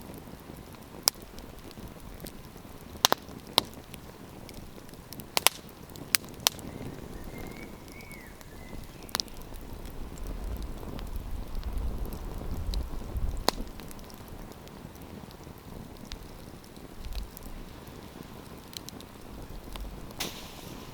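Wood campfire crackling over a steady hiss, with sharp pops scattered irregularly through it. A low rumble comes up in the middle and fades again.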